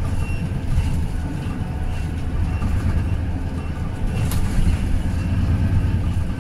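Daewoo low-floor city bus running, a steady low engine and drivetrain drone with light rattles, and one short sharp click a little past four seconds in.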